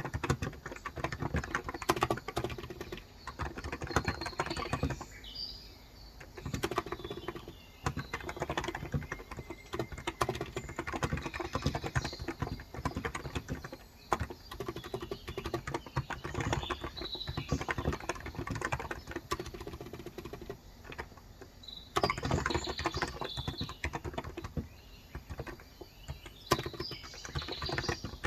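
Steady typing on a Cox Endeavor electro-capacitive (Topre-style) 35 g tenkeyless keyboard, in quick runs of keystrokes with a few short pauses. Birds chirp faintly in the background.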